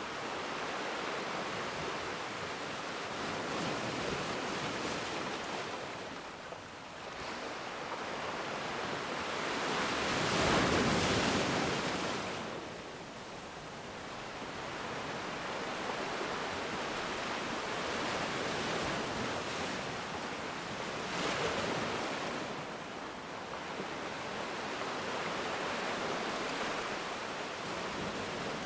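Ocean waves breaking and washing in a steady surf, swelling and ebbing, with the biggest wave cresting about a third of the way through.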